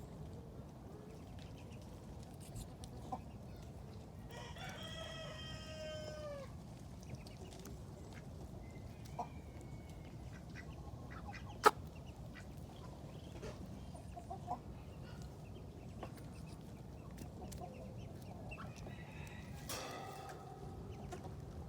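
A rooster crowing: one long crow about four seconds in and a fainter one near the end, with scattered small clicks and one sharp click near the middle.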